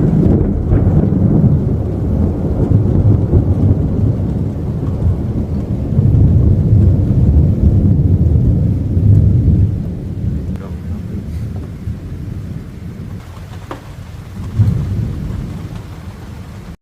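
Thunder rumbling in long, low rolls that swell twice and then die away, with a short louder rumble near the end.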